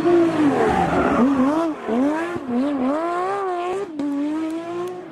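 Race car engine revving hard, its pitch rising and falling over and over, with short dips like lifts or gear changes.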